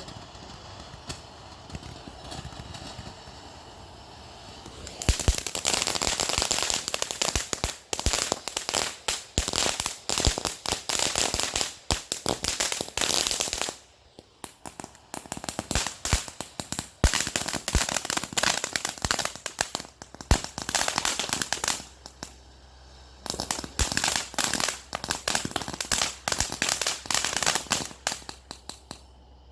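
A string of firecrackers going off: rapid, dense cracking and popping that starts about five seconds in and comes in three long volleys, with short pauses about halfway through and again a little later.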